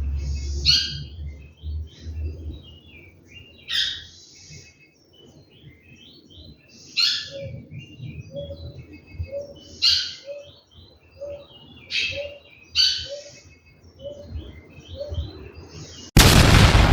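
Bicudo (great-billed seed-finch) singing: repeated phrases of short, high whistled notes every few seconds. A loud rush of noise cuts in suddenly near the end.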